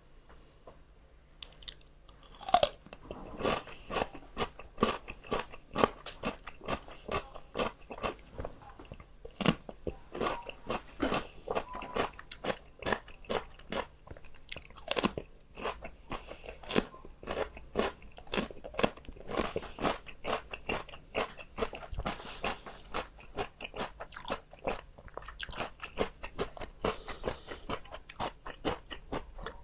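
Close-up crunching and chewing of raw fresh vegetables: a first loud crisp bite about two and a half seconds in, then a steady run of crunches at about two a second.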